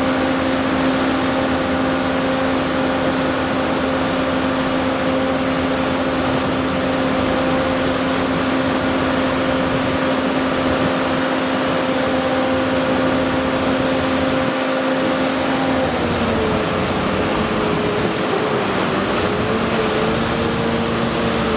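A motor-driven machine running steadily with a constant hum over loud noise; about sixteen seconds in, its hum drops slightly in pitch and wavers, as when an engine's speed changes.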